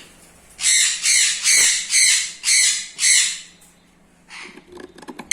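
Lovebirds squawking: a quick run of about six harsh, shrill calls over some three seconds, then fainter calls near the end.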